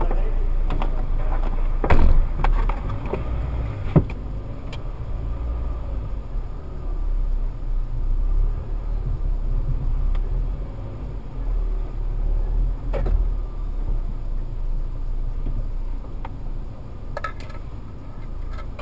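Car's engine running as the car creeps forward, heard from inside the cabin as a steady low rumble, with a few short knocks.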